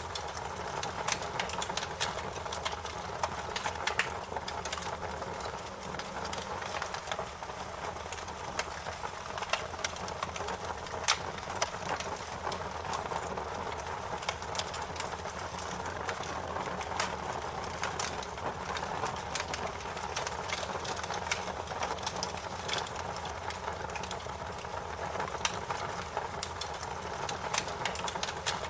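Wood fire burning with a steady low rush and frequent irregular sharp crackles and pops.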